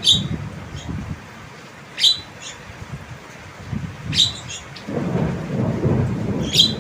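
Javan myna giving short, sharp, piercing calls that sweep downward, about four of them roughly two seconds apart, with fainter ones between. A low rumbling noise runs underneath and grows louder about five seconds in.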